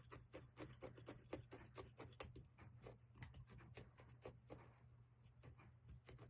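Felting needle jabbing repeatedly through wool roving into a foam backing, a faint quick series of pokes at about five or six a second.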